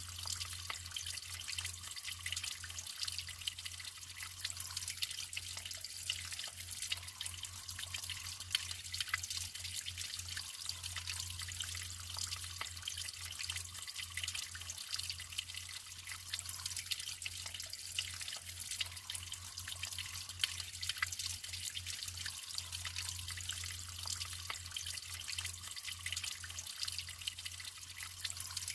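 Natural running water trickling and splashing steadily, a continuous hiss dotted with small drips and splashes, over a low steady hum.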